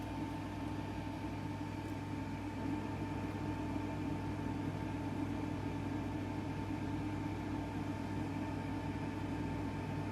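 Steady background machine hum with a constant high tone over it, unchanging throughout: unwanted background noise.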